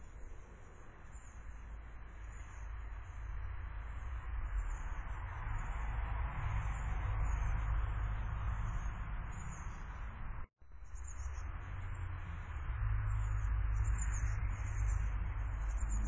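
Faint, high-pitched bird chirps coming and going over a steady rushing background noise. The sound cuts out for an instant about ten seconds in.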